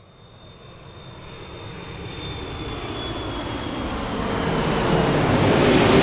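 Airplane engine and airflow noise swelling steadily up from silence: a broad rush with a faint high whine that slowly drops in pitch.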